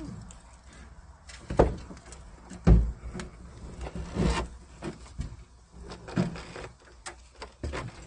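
A series of irregular clunks and knocks as car body parts and hand tools are handled during door removal, the loudest two coming in the first three seconds.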